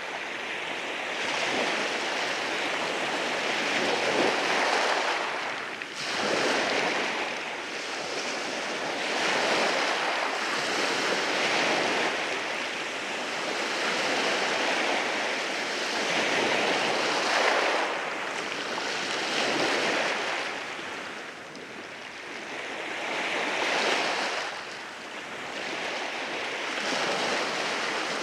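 Ocean waves rolling in and washing over rocks: a continuous rushing surf that swells and ebbs every few seconds, with some wind noise.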